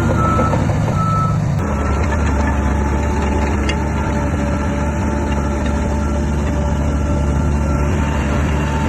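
Heavy diesel earthmoving machinery, a bulldozer at work, running steadily with a deep engine drone. A reversing alarm beeps over it, most clearly in the first second and a half.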